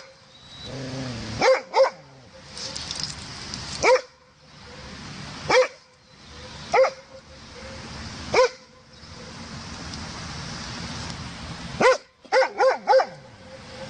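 A dog barking: single barks every one to two seconds, then a quick run of four barks near the end.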